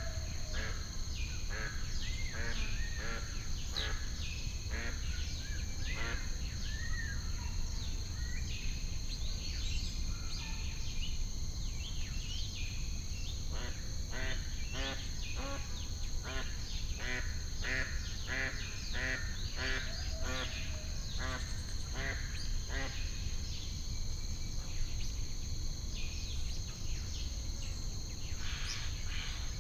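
Lake birds calling, with many short quacking calls in busy runs that are densest in the middle and thin out near the end. A steady high-pitched insect drone and a low rumble run underneath.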